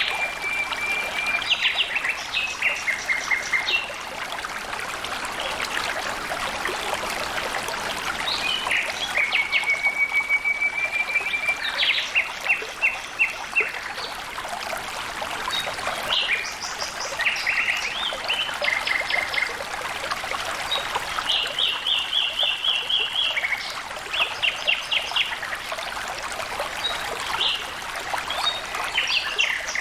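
Water flowing and trickling steadily, with a bird singing over it: short phrases of rapid, evenly spaced notes and trills, repeated every few seconds.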